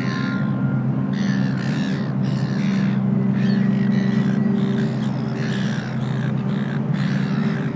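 Birds calling, with many short repeated calls over a steady low music drone.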